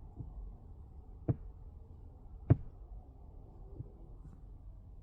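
Two sharp taps, a little over a second apart, over a faint low steady rumble: fingers working the buttons or screen of a diagnostic scan tool.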